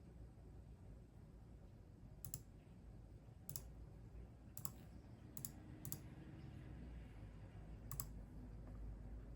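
Six scattered, irregularly spaced sharp clicks of computer keyboard keys, over a faint low rumble of room tone.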